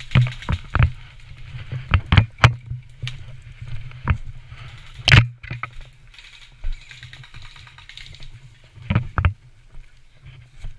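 Irregular sharp clicks and knocks, a dozen or so, some in quick pairs, the loudest about five seconds in, over a steady low rumble.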